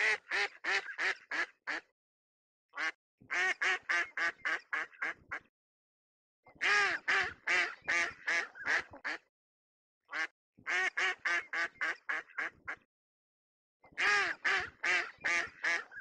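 Duck quacking in five bouts of rapid quacks, about four a second, with short silent gaps between the bouts.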